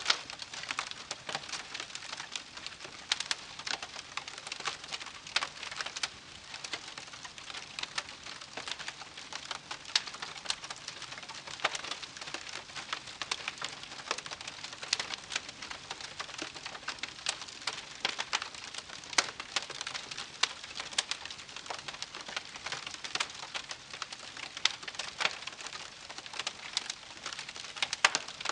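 Wood fire crackling: a steady hiss under dense, irregular pops and snaps, a few of them louder.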